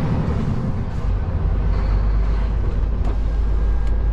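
Scania lorry's engine running steadily while driving, heard inside the cab as a low rumble.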